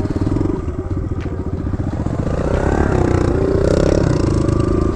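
Kawasaki KLX110 dirt bike's small four-stroke single running at low speed, getting louder and higher through the middle as it rides closer.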